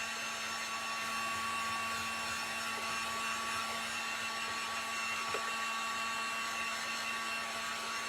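Handheld electric hot-air blower running steadily, drying fresh paint on a small wooden birdhouse.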